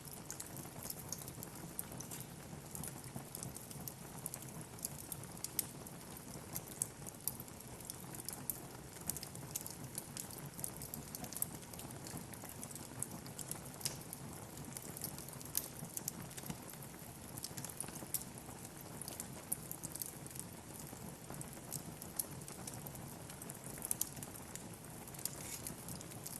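Wood fire burning in a fireplace, crackling and popping irregularly over a steady hiss of flame.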